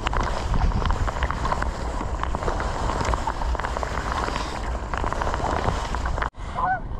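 Wind rumbling on the microphone over water splashing and dripping from kayak paddle strokes. It cuts out abruptly near the end.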